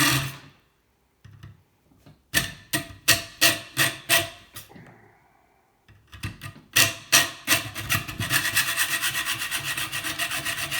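Hand saw cutting through the metal tube of a scrap kettle heating element in back-and-forth strokes. A few separate strokes come first, then a pause, then quicker steady strokes of about five a second until the cut is nearly through.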